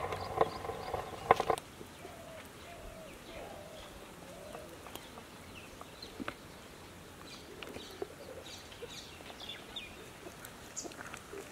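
Birds chirping and calling faintly over quiet outdoor background noise. A louder sound with a few clicks fills the first second and a half, then stops.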